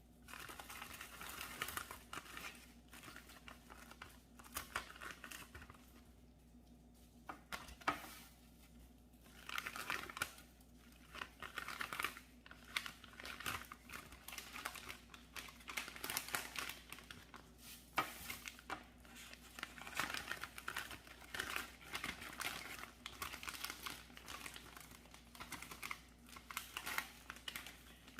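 Irregular crinkling and rustling, with many small crackles and sharp clicks, of something dry being handled and crumpled close by, starting suddenly.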